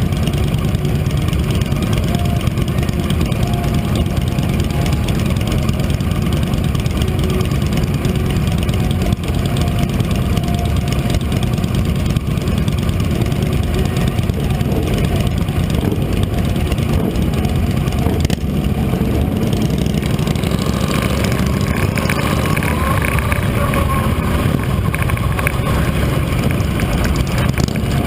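Motorcycle engine running steadily, the sound mostly low-pitched. From about twenty seconds in, more mid- and high-pitched sound joins it.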